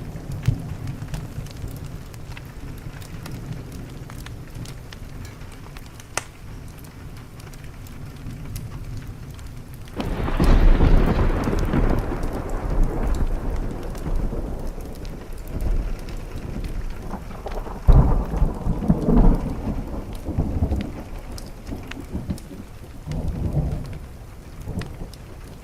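Thunder over steady rain: a sudden loud clap about ten seconds in rolls into a long low rumble, swelling again twice before fading. Faint wood-fire crackles tick throughout.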